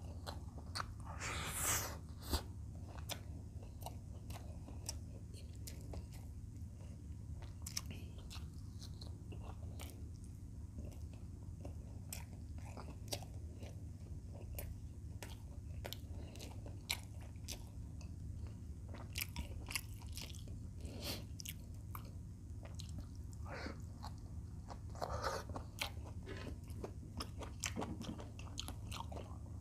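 Close-up eating sounds of a man chewing fried chicken breast and rice: many small wet clicks and smacks of chewing, with a louder, longer rustling sound about a second and a half in and again near the end.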